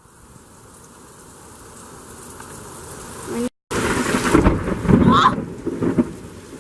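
Rain falling steadily in a thunderstorm, then, after a brief dropout about three and a half seconds in, loud thunder rumbling for about two seconds.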